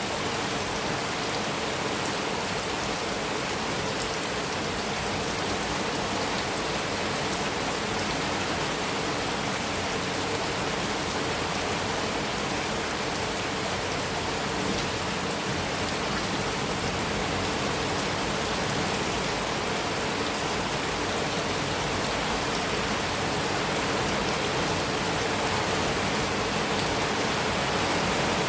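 Heavy rain falling steadily on a metal roof, a dense even hiss that grows slightly louder near the end.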